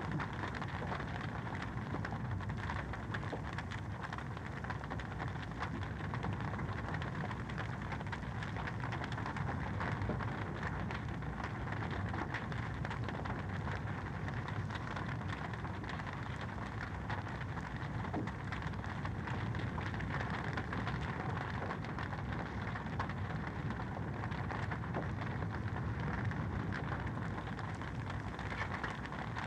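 Wood fire in a fireplace crackling steadily: a dense run of small pops and snaps over a constant hiss and low rumble.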